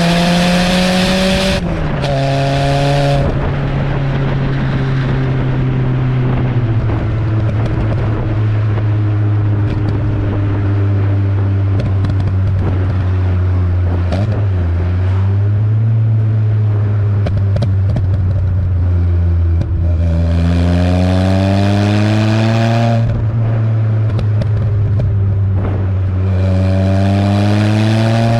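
Supercharged 2.0-litre eight-valve four-cylinder of a VW Golf Mk2 GTI with a G60 supercharger, heard at the tailpipe through two mufflers with the exhaust valve closed. It is revved with rising pitch at the start and again briefly just after, then settles to a steady idle. It is revved up twice more in the second half, the last time near the end.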